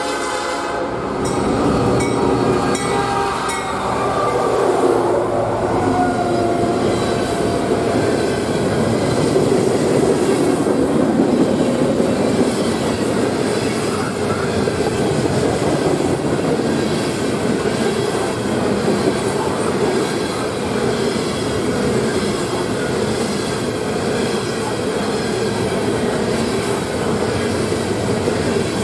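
Freight train passing close by on the Norfolk Southern line. A horn blast dies away just at the start, the locomotives pass in the first few seconds, then a long string of open-top coal cars rolls by with a steady rumble and clatter of wheels on the rail joints.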